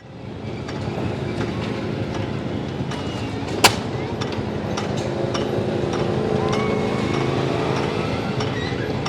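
Old engines running steadily, with scattered short clicks and one sharp crack a little over a third of the way in.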